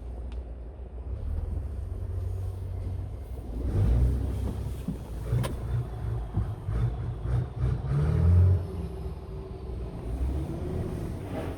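Scania R tractor unit's diesel engine running: a steady low rumble that grows louder and uneven from about four seconds in until about eight and a half seconds in, then settles again.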